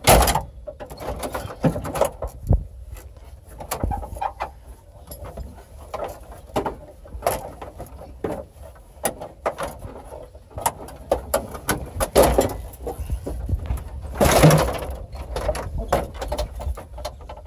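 Irregular knocks, clatter and cracking as a GMC truck's dashboard parts are pried, pulled and broken out, with a louder crash about fourteen seconds in.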